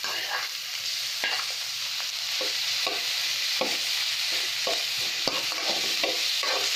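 Ground chicken frying in hot oil with chopped onion and garlic in a metal wok, a steady sizzle, while a spoon stirs and scrapes against the pan in repeated strokes about once or twice a second.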